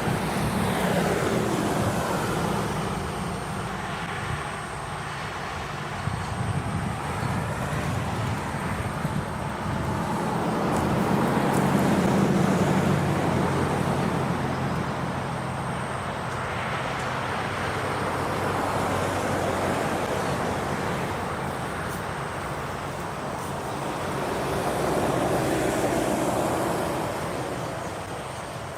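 Diesel train running past: a steady low engine drone under wheel and rail noise that swells and fades several times.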